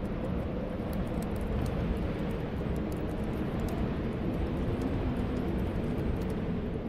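Steady low storm wind blowing, with small fireplace crackles scattered through it.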